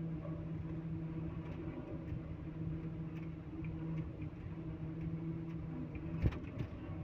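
Heavy machine's diesel engine running steadily at an even, constant pitch, with one sharp knock near the end.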